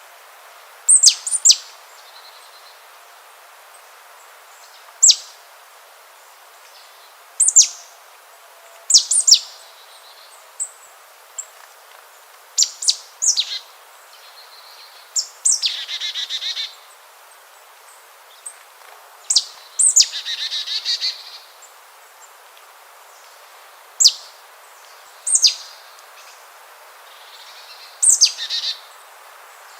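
Bird calls: short, sharp, high chirps that sweep steeply downward, repeated every few seconds, with two longer buzzy calls about halfway through, over a steady hiss.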